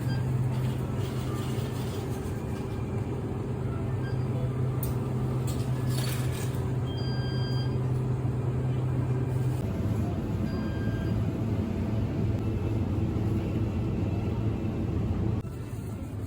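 A steady low mechanical hum with a constant pitch, changing abruptly about two-thirds of the way in and dropping in level near the end.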